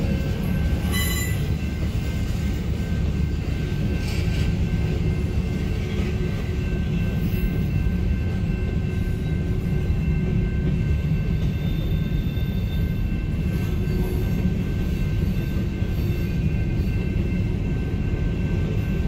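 Freight train cars rolling through a grade crossing: a steady low rumble of wheels on the rails, with a faint steady high ringing above it. Heard from inside a stopped car.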